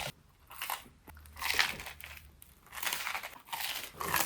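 Someone biting into and chewing a sandwich, a few irregular crunchy bites.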